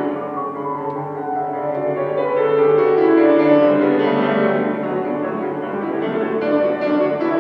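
Solo piano playing a classical piece, with dense, continuous notes.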